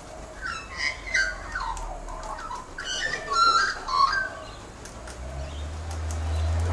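Birds chirping: a quick series of short calls in the first four seconds. A low rumble builds near the end.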